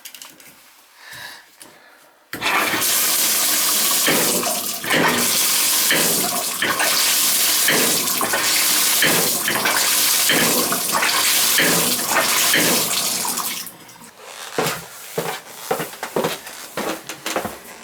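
Water rushing through a Symmons Temptrol shower valve, turned on about two seconds in, with repeated sharp knocks through the flow. Near the end the rush drops away, leaving scattered knocks. The banging is the valve's fault, which the plumber puts down to a bad cartridge.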